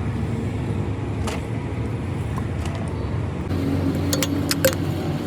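A vehicle engine running steadily with a low rumble, with a few light metallic clicks and clinks near the end.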